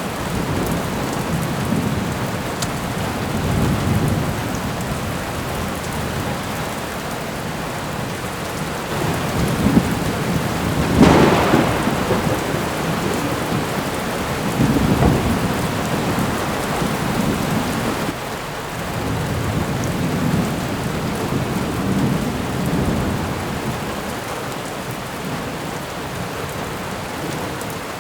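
Thunderstorm ambience: steady heavy rain with rolling thunder rumbling on and off, and a sharp, loud thunderclap about a third of the way in.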